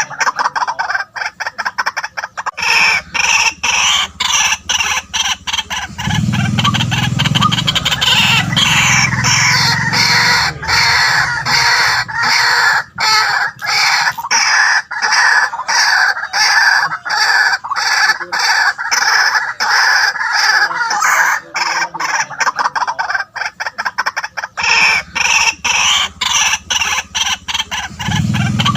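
White-breasted waterhen calling: a loud, unbroken run of rapid repeated croaking notes, with a deeper part joining in about six seconds in and again near the end.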